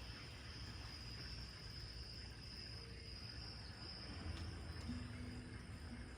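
Seashore nature ambience: a steady high insect trill over a low rumble, with a dove starting to coo near the end.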